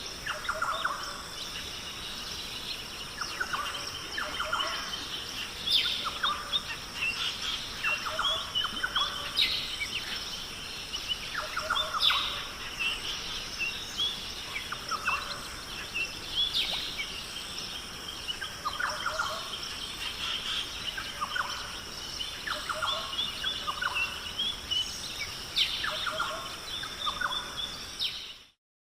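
Birds calling and chirping every second or two over a steady high hiss, in a nature ambience recording. The sound cuts out to silence for a moment near the end.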